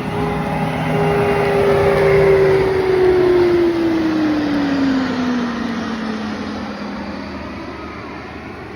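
Military jet flying past at an air show, loudest about two seconds in. Its engine tone then drops steadily in pitch as it passes and fades away.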